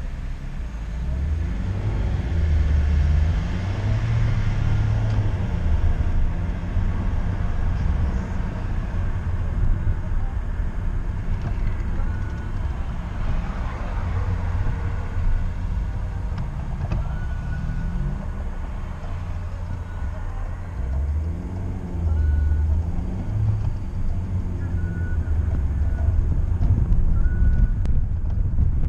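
A 2011 Honda Civic's 1.4-litre four-cylinder petrol engine running on the move, with road noise. The engine pitch rises and falls several times as it accelerates and changes gear.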